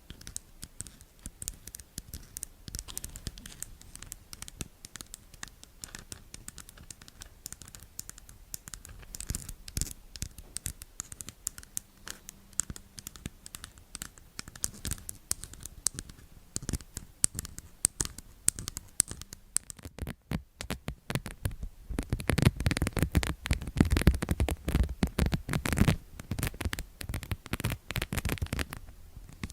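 Close-miked scratching with many quick, irregular crackles and taps, much louder and denser about three quarters of the way through.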